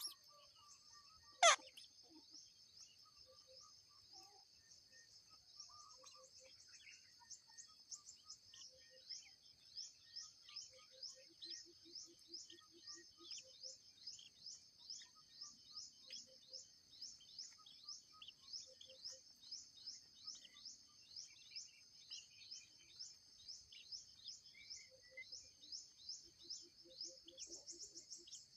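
Outdoor bird and insect ambience: a steady high-pitched insect drone with a short chirp repeated about two and a half times a second, and scattered faint bird calls. About a second and a half in, one loud, sharply falling whistle stands out above the rest.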